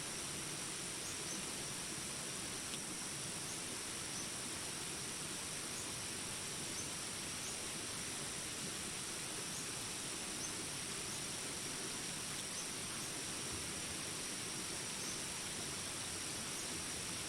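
Jungle ambience: steady rain hiss under a continuous high-pitched insect drone, with small high chirps repeating about once a second.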